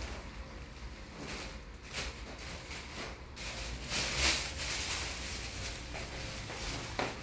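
Rustling and handling noises, loudest about four seconds in.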